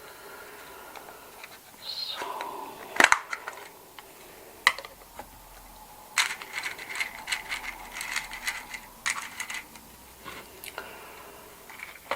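Cash register being worked for its clicky sounds: a loud clack about three seconds in, then a quick run of sharp key clicks.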